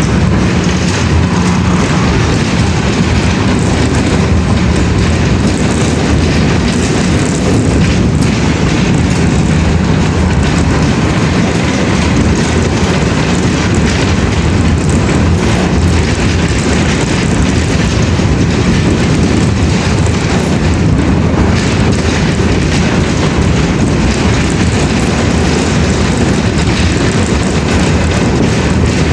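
Loud, steady rumbling noise with a low hum, unchanging throughout.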